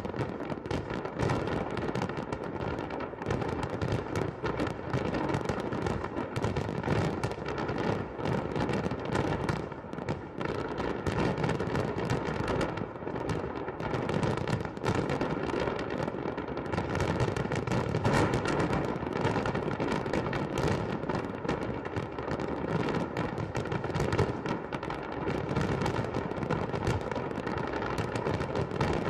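Festive fireworks salute: a dense, continuous run of overlapping bangs and crackles with no pauses.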